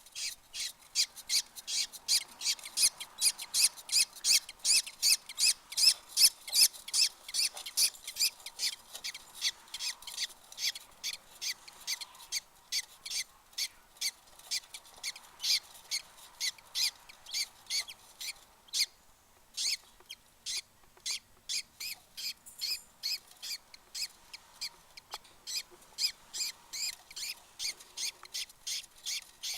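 Newly hatched budgerigar chicks cheeping: a steady string of short, high-pitched peeps, about two to three a second, with a brief pause a little past halfway.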